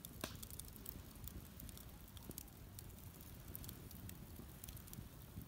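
Wood campfire crackling faintly, with scattered sharp pops and snaps.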